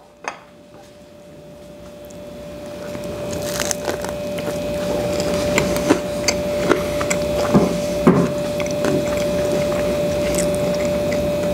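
A person biting into and chewing a griddle-pressed Cuban sandwich, with short crunches and crackles of the toasted roll. Underneath is a steady hum and hiss that swells over the first few seconds.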